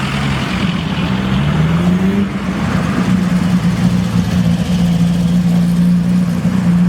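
Car engine running, its pitch rising about a second and a half in as it accelerates, then holding steady.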